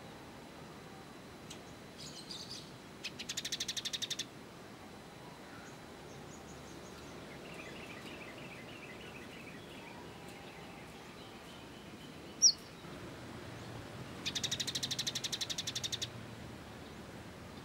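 Small songbird calls: two fast, evenly repeated trills of about two seconds each, one a few seconds in and one near the end, with soft twittering between them and a single sharp chirp, the loudest sound, about twelve seconds in.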